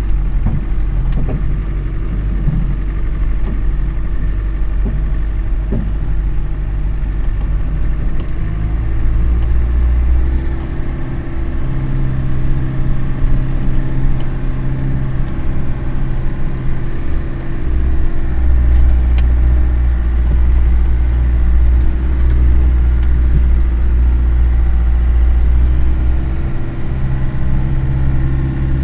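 Land Rover Defender engine running steadily as the vehicle drags logs, a low drone whose pitch shifts a few times as the revs change.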